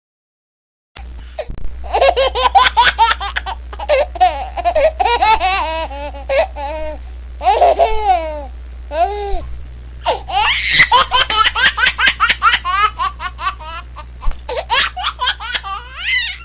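A baby laughing hard in long runs of quick, high-pitched giggles and squeals, after about a second of silence at the start. A steady low hum sits underneath.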